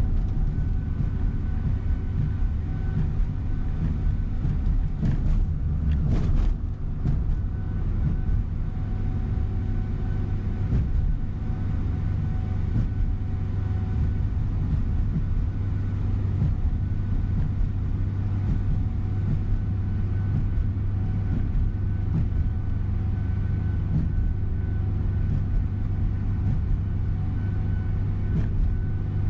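Tour coach running at speed, heard from inside the cabin: a steady low engine and road rumble with a faint steady whine, and a brief bump about six seconds in.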